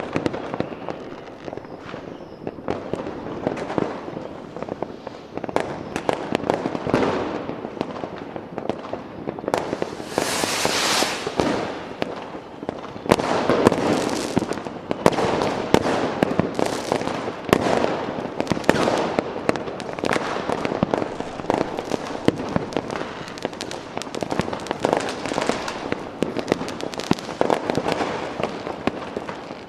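Fireworks going off in a dense, irregular barrage of bangs and crackling, with a louder burst of hissing crackle about ten seconds in.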